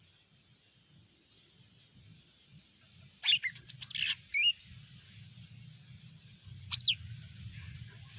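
Cucak ijo mini (small leafbird) singing: a quick burst of rapid, sweeping whistled notes about three seconds in, then one short call about seven seconds in, over a faint low hum.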